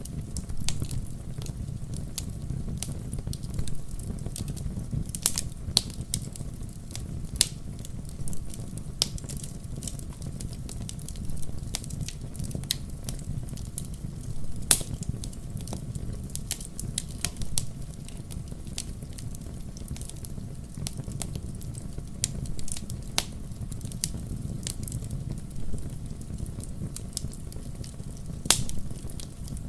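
Wood campfire crackling: irregular sharp pops and snaps over a steady low rush of the burning fire, with the loudest pop about halfway through.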